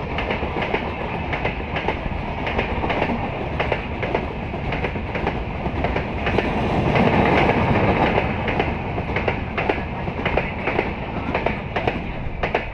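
LHB passenger coaches of an express train rolling past at speed, wheels clicking rapidly and irregularly over rail joints over a steady rolling rumble, growing louder around the middle before easing again.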